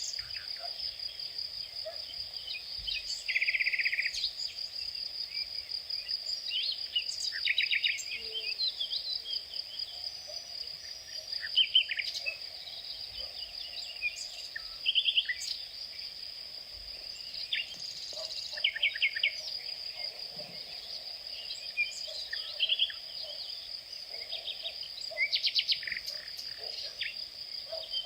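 Insects keep up a steady high-pitched drone, while birds give short chirps and quick rattling trills on and off.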